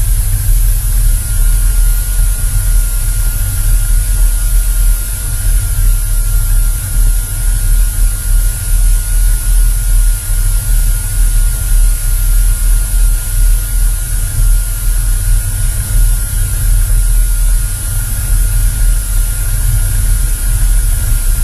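Cessna 172's engine and propeller running steadily under a heavy wash of wind and hiss, with a faint steady whine. Near the end the whine starts to rise in pitch.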